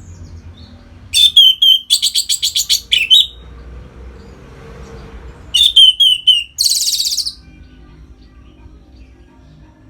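Orange-headed thrush singing two loud phrases a few seconds apart. Each phrase is a few short, clear whistled notes followed by a rapid, buzzy trill.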